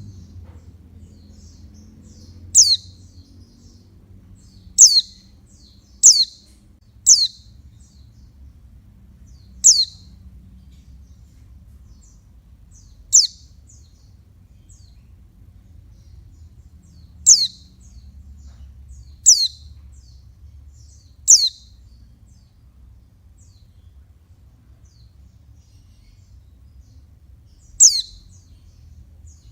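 Female white-eye (pleci) giving short, high, downward-sweeping calls, about ten of them at irregular intervals a second to several seconds apart. It is the call of the female that bird keepers play to stir males into singing.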